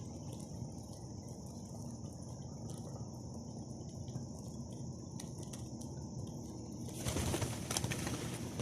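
Birds, with a loud rush of wing flapping about seven seconds in that lasts a second or so, over a steady background hum.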